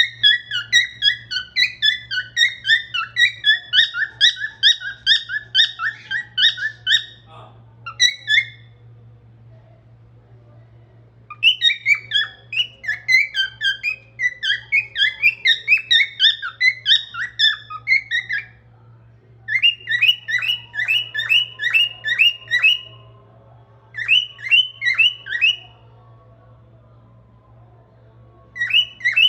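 Cockatiel whistling: quick runs of short, high whistled notes, several a second, in a series of bursts with pauses between them.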